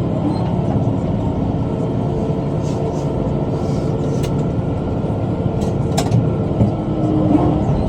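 Tractor engine running steadily while pulling a rotary cutter (bush hog) through brush, with a few sharp clicks along the way.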